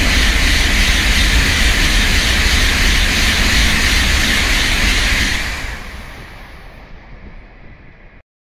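Tokaido Shinkansen train passing, a loud rushing hiss over a low rumble that holds for about five seconds, then fades away and cuts off abruptly near the end.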